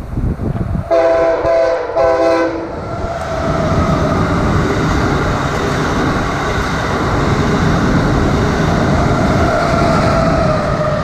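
Amtrak Acela Express trainset sounding its horn in three short blasts about a second in, the last a little longer, then passing at speed with a steady rushing and rail noise.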